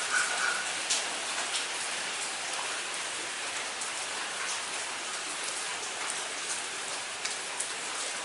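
Steady rain falling, with individual drops ticking sharply on a hard surface every so often.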